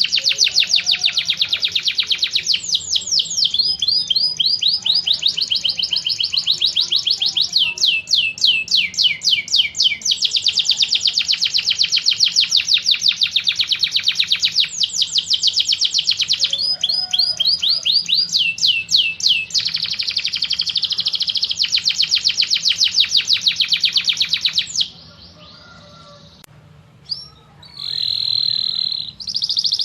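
Songbird trilling from a combined tengkek buto, cililin and canary song recording: long runs of very fast, high trills, some dropping in pitch, follow one another without a break. Near the end there is a short lull with a few soft notes, then a brief steady whistle and more trilling.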